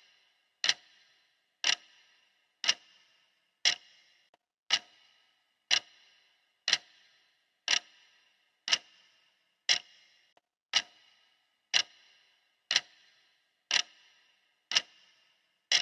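Clock ticking steadily, once a second, each tick a sharp click with a short ringing tail.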